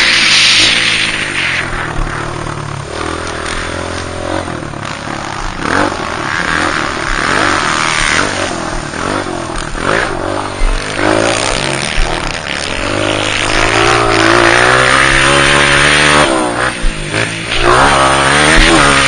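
Honda CRF230 dirt bike's single-cylinder four-stroke engine being ridden hard, revving up and dropping back again and again as the rider works the throttle and gears. A few sharp knocks come in the second half.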